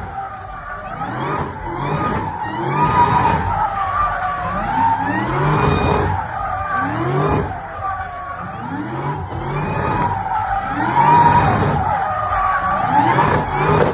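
Car drifting: the engine revs up again and again, about once a second, while the tyres squeal steadily.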